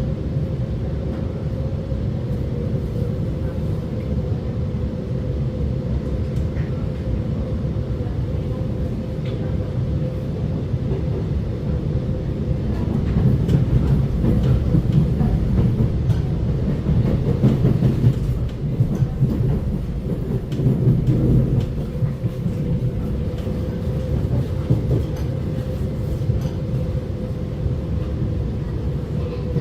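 Alstom Movia R151 metro train running: a steady low rumble with a constant hum-like tone above it, growing louder for several seconds midway before settling again.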